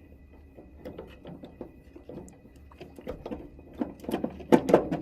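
Light clicks and knocks of furnace parts being handled and fitted by hand, with a few sharper knocks near the end.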